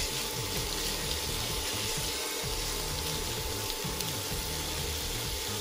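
Shrimp, chicken strips and mushrooms sizzling steadily in a nonstick frying pan as they are stirred with tongs, with a few light clicks.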